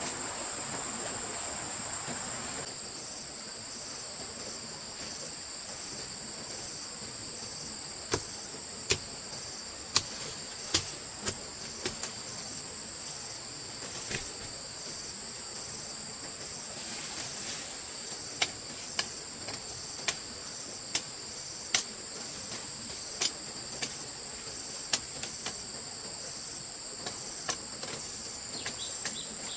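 Crickets or similar insects calling steadily in high-pitched trills. From about a quarter of the way in, a string of sharp knocks comes at an uneven pace of roughly one a second, like striking or chopping.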